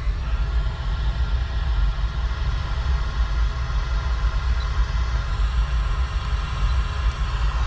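Nissan 370Z's 3.7-litre V6 running, a steady low rumble with no change in pitch.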